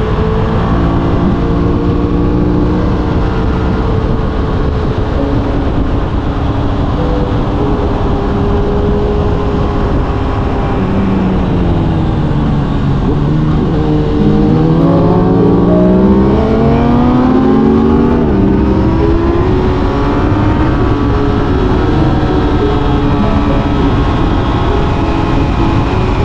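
Aprilia RS 660 parallel-twin sport-bike engine under way over heavy wind noise: it holds steady revs, drops in pitch as the bike slows about halfway through, then climbs again under acceleration until the revs fall back near the three-quarter mark and settle.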